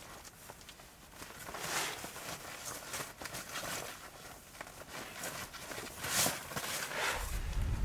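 A few soft swishing rustles and light ticks, with low wind rumble on the microphone building near the end.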